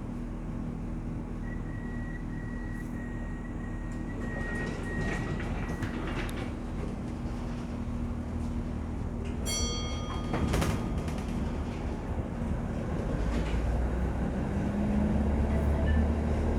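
A vehicle's steady running rumble and hum, with a row of short high electronic beeps in the first few seconds and a brief chime-like tone near the middle; the rumble grows louder toward the end.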